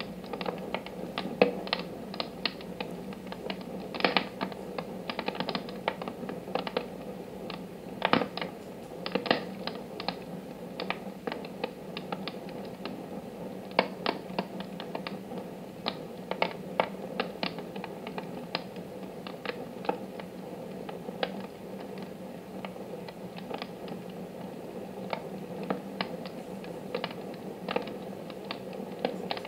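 Wood fire in a wood-burning stove crackling, with irregular sharp pops and snaps, a few louder than the rest, over a steady low hiss of the flames.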